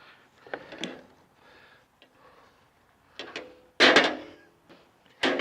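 A few short clicks and scuffs of a vegetable oil bottle and hands being handled while raw chicken skin is rubbed with oil, the loudest about four seconds in.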